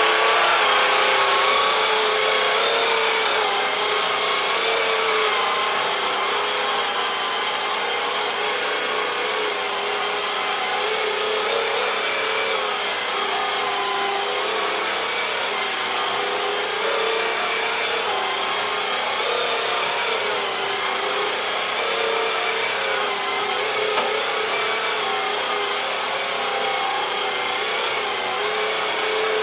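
A battery-powered Swivel Sweeper running, its small motor and spinning brush whirring steadily, the pitch wavering slightly.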